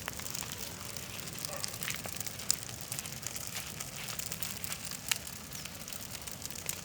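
Bonfire of dry branches burning, a steady crackle with scattered sharp pops at irregular moments.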